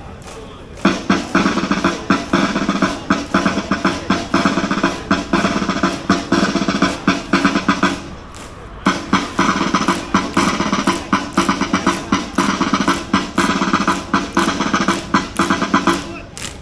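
Parade band music with rapid drumming, starting about a second in, breaking off briefly near the middle, then starting again.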